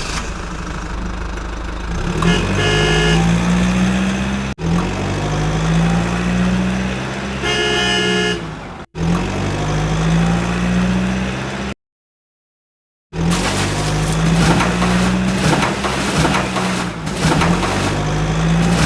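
A motor vehicle engine running, its pitch rising and settling again and again, with a horn honking three times. The sound cuts off abruptly a few times and drops out completely for over a second about two-thirds of the way through.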